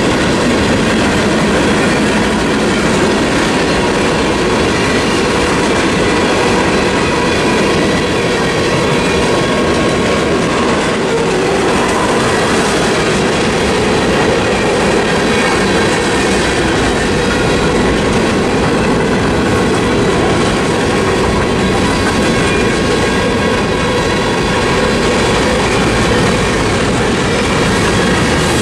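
Freight train's tank cars, hoppers and boxcars rolling steadily past, wheels clacking over the rail joints and crossing with a continuous rumble.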